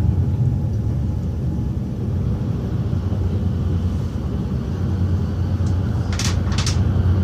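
Train running with a steady low rumble, and two or three short sharp noises about six seconds in.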